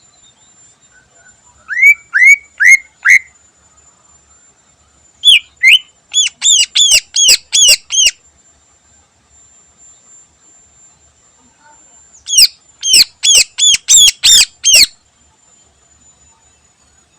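Greater green leafbird (cucak ijo) calling in three bursts of short, sharp repeated notes: first four quick rising notes, then a run of about ten, then about eight more after a pause.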